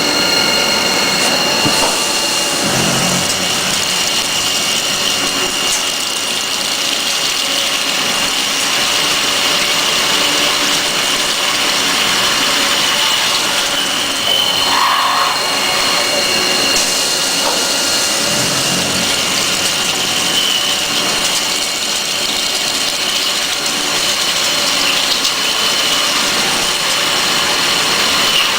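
DAMA HDC 1640 high-speed CNC drilling center running and drilling metal: a steady high spindle whine over dense cutting noise, with brief lower swells about 3 s and 19 s in.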